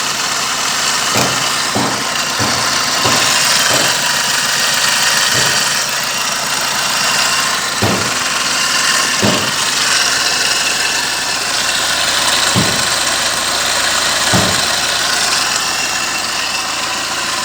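Kia Ceed's 1.6 D4FB four-cylinder turbodiesel idling steadily under a loud hiss, with short thumps at irregular intervals.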